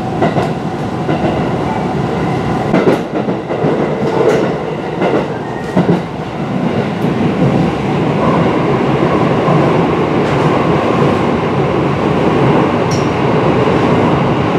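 Aichi Loop Railway 2000-series electric train running, heard from inside the car: a steady rumble of wheels on rail, with a few sharp clicks in the first half.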